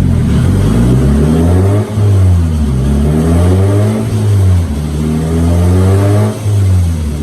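Mazda Miata's worn-out stock engine running hard on a chassis dyno during a baseline pull, its revs climbing and falling several times, with two brief drops in level, about two seconds in and near the end.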